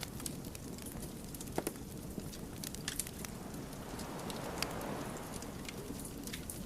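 Wood fire burning with a steady low roar of flames and irregular sharp pops and crackles from the burning logs, one louder pop about one and a half seconds in.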